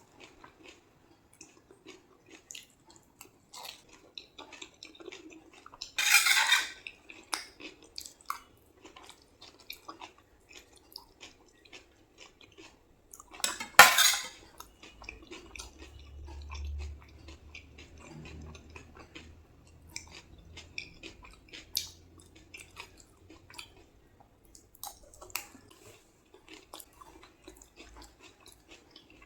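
Someone eating crisp pani puri: small clinks of a spoon on a plate, with crunchy bites, two of them louder, about six and fourteen seconds in.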